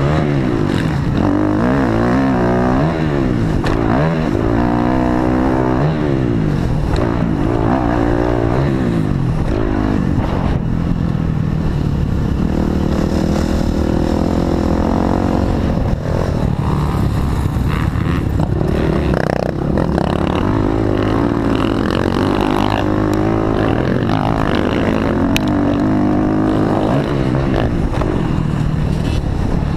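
Dirt bike engine revving hard, its pitch climbing and dropping again and again as it accelerates and shifts.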